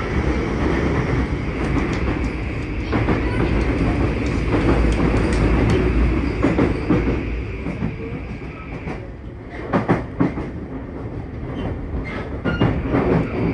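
Running noise inside a Tokyu 2020 series electric train with a Mitsubishi full-SiC MOSFET VVVF inverter, travelling through a tunnel: a loud steady rumble of wheels and traction motors with a steady high tone. About nine seconds in the noise eases and the high tone fades, then a few sharp clicks of wheels over rail joints follow.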